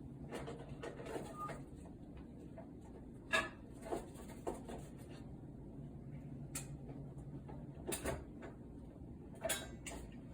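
Scattered clicks and knocks of a screwdriver and screws as a tumble dryer's metal back panel is screwed back on, over a low steady hum.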